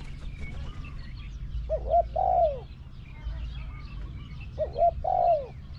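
Spotted dove cooing: two phrases about three seconds apart, each a couple of short coos followed by a longer falling coo.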